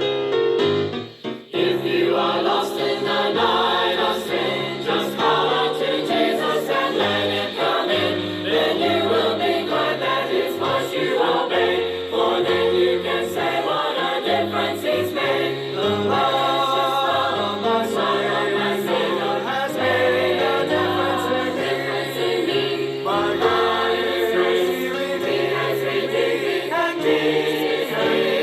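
A group of voices singing a gospel song, with a brief break about a second in before the singing carries on.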